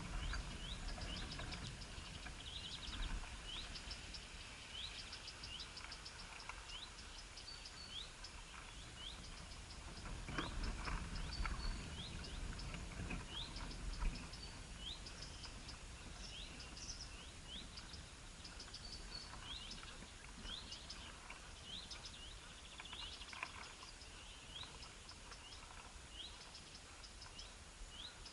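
Birds chirping over and over: short, high, upward-sweeping calls a few times every second, with bursts of fast clicking notes, over steady outdoor background noise. A low rumble rises in the middle and fades.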